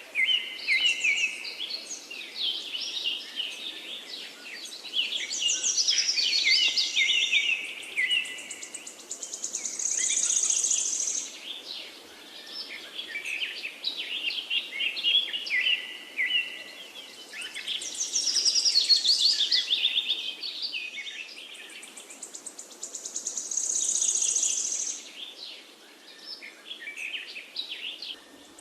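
Several songbirds chirping and singing over one another in a continuous chorus, with a high, rapid trill standing out twice, over a faint steady hiss.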